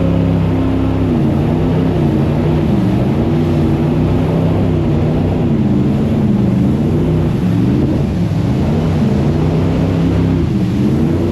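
Jet boat's engine running hard, its pitch swinging up and down again and again as the throttle is worked, over a steady rush of water and wind.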